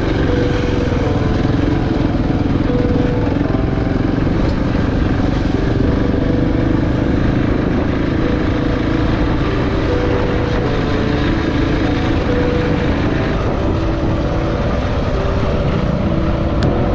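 Single-cylinder engine of a KTM 690 Enduro R running at a steady, even level while the bike rides along a dirt track.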